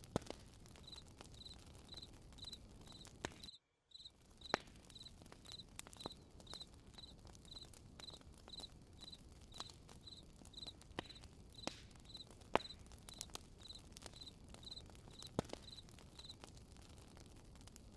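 Campfire crackling with scattered sharp pops over a low hiss, while a cricket chirps steadily about twice a second. The sound cuts out briefly about three and a half seconds in.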